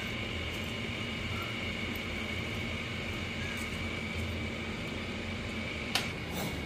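A steady mechanical hum with a constant high whine, and one short click about six seconds in.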